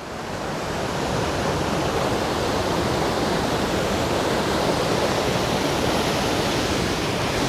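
Waterfall rushing, heard from right at its top: a steady, full roar of falling water that swells over the first second and then holds.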